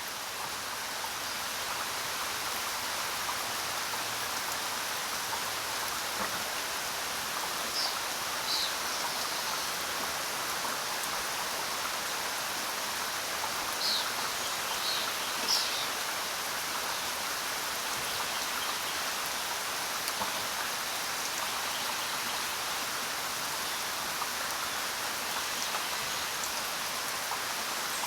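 Steady rain falling, an even, dense hiss of drops. A few short high chirps stand out briefly about eight seconds in and again around fourteen to sixteen seconds in.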